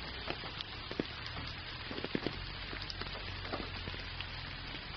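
Gentle rain falling steadily, with scattered individual drop hits standing out from the even patter.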